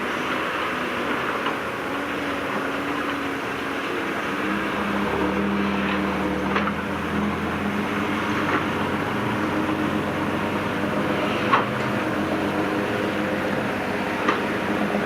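Diesel engine of heavy earthmoving machinery running, its pitch shifting with load about five seconds in, with a few short sharp knocks.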